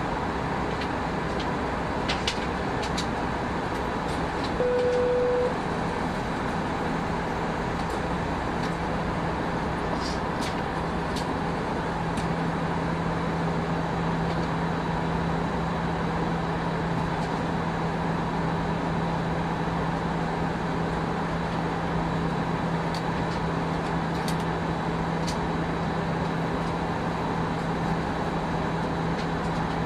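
Steady in-flight cabin noise of an Airbus A319, the rush of air and engines with a steady low hum. A short single steady tone sounds about five seconds in.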